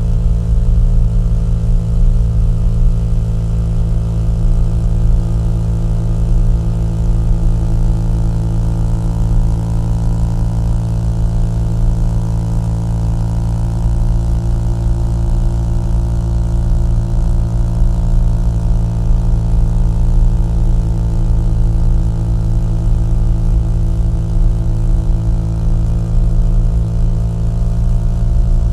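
Small-displacement motorcycle engine and exhaust running at a steady cruising speed, with an even, unchanging note.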